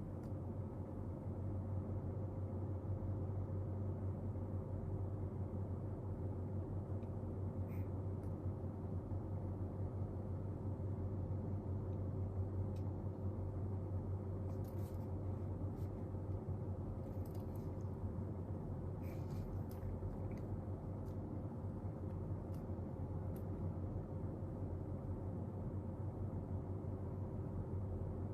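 Steady low room hum with a few faint, brief scratching sounds, clustered about halfway through and a little later, from desk work.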